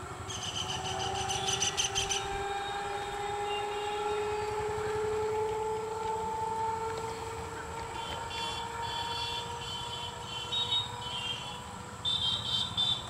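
An EMU electric local train running with a steady low rumble and a whine that rises slowly in pitch over the first half. A high, rapid trilling comes briefly near the start and again several times in the second half.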